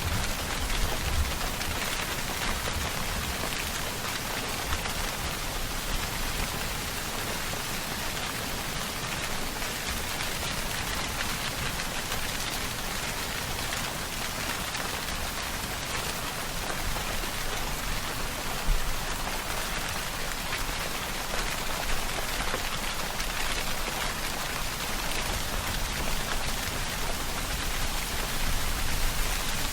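Steady rainfall pattering on surfaces, a dense even hiss with occasional louder drops.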